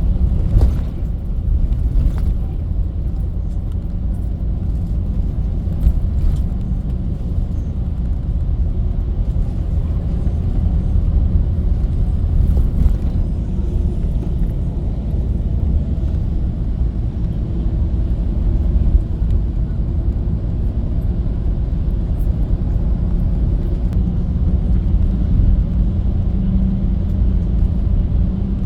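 A bus on the move, with a steady low rumble of engine and road noise.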